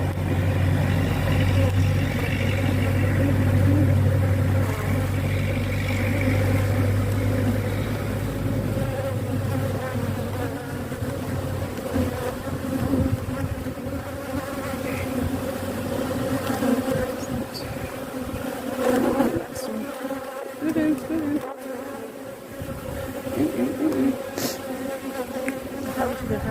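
Many honeybees buzzing in a steady drone around an open hive. A low steady hum runs under it for the first ten seconds or so and then fades, and there are a few brief knocks later on.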